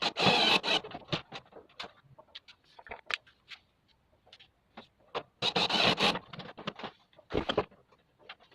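Parts being handled during assembly of a split air conditioner's indoor unit: scattered clicks and taps, with two rough scraping rustles about a second long, one at the start and one about five and a half seconds in.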